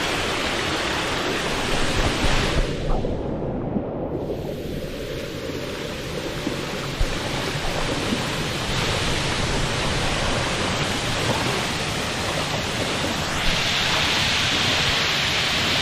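Waterfall cascade: a steady hiss of rushing, falling water. The sound briefly turns duller about three seconds in and grows brighter and hissier near the end.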